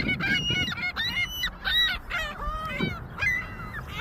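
A flock of white birds calling over one another as they crowd in for thrown food: many short, harsh, overlapping calls in quick succession.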